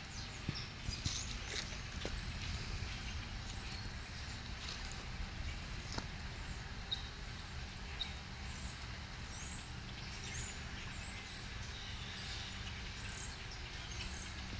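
A large flock of birds calling, many short high chirps overlapping and scattered throughout, over a steady low rumble.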